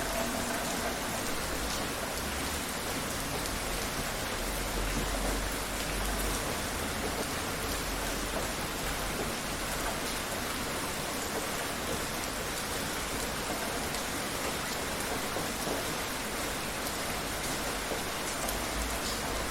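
Steady heavy rain falling on a surface, a dense even hiss with scattered drop taps and a faint low rumble.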